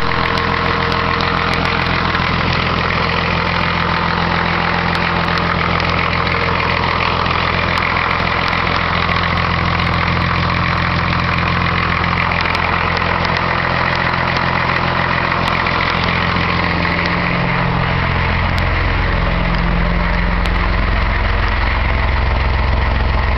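Engine idling steadily, settling to a slightly lower speed about three-quarters of the way through. Its piston rings are not seated, giving low compression and oil burning.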